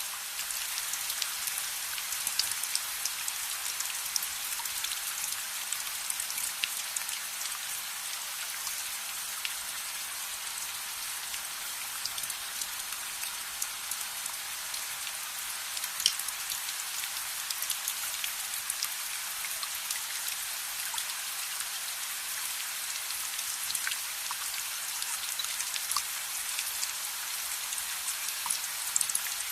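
Steady rain hiss with many small scattered ticks and pops, one of them louder about halfway through.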